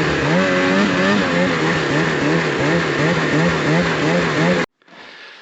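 Gas-powered rope winch engine running under load, its pitch rising and falling about two to three times a second as it hauls a snowmobile up the slope. The sound cuts off suddenly near the end.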